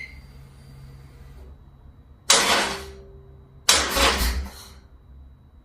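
Harley-Davidson Sportster 48 being started twice, about a second and a half apart. Each attempt is a short burst that dies away without the engine catching, the sign of a flat battery.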